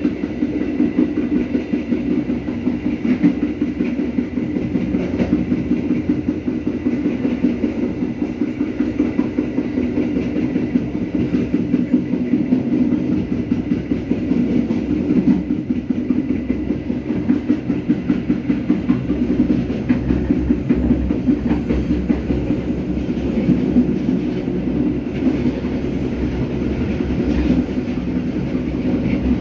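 Passenger carriage of the Serayu train running along the track, heard from inside the carriage: a steady rumble with rapid clatter of the wheels on the rails.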